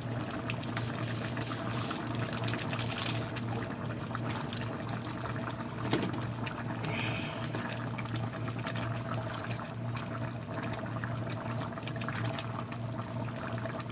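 Chicken curry simmering in a pot, with a steady bubbling and many small pops and crackles over a low steady hum.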